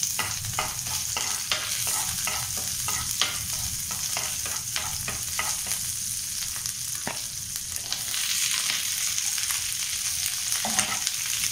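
Chopped garlic, capsicum and green chilies sizzling in hot oil in a frying pan while a metal spatula stirs them, with many quick scrapes and taps on the pan. About eight seconds in, chopped onion goes into the pan and the sizzle gets a little louder and steadier.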